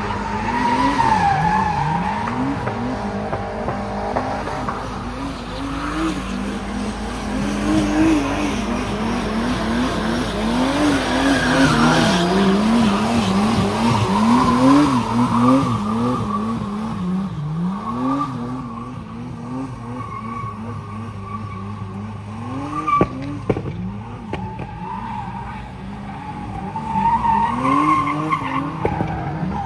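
Car engine revved hard and repeatedly, its pitch rising and falling in quick bursts of throttle, while the tyres squeal through long slides in street drifting.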